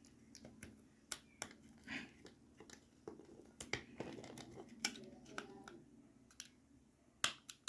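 Faint, irregular small clicks and plastic taps as a 9-volt battery is fitted into a DT830D digital multimeter, with two sharper clicks near the end.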